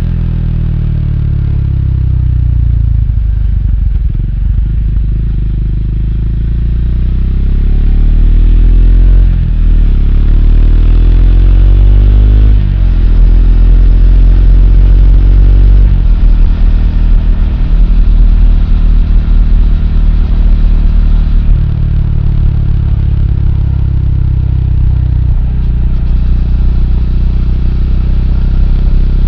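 Triumph Speed 400's single-cylinder engine running under way. Its revs ease off, then climb through the gears, with upshifts about nine and thirteen seconds in, before it settles to a steady cruise.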